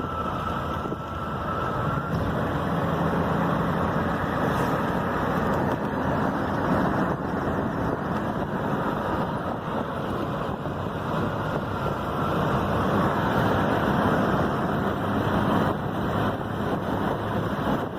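Steady road and wind noise of a vehicle driving along.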